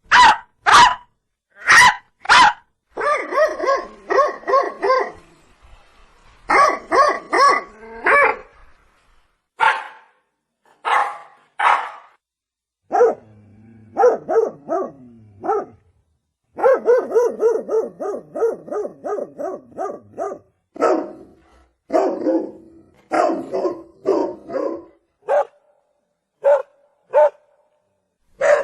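Dog barking: single sharp barks broken up by quick runs of barking, several a second, with short pauses between.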